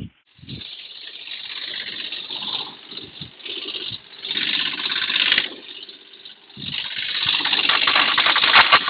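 Komatsu PC30-3 mini excavator running its track on the newly fitted drive sprocket in three short bursts of travel, a test run after the sprocket swap and track-tension check.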